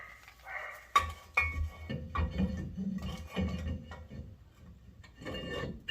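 Metal brake parts clinking and clanking as they are handled, with a sharp clank about a second in and a few short ringing metallic tones and dull knocks after it.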